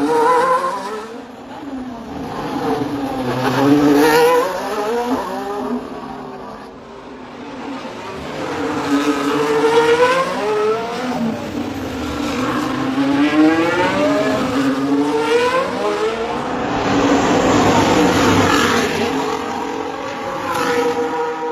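Formula 1 cars racing past one after another, each engine swelling loud as it passes and fading. The engine note repeatedly climbs in pitch and drops again, about five passes in all.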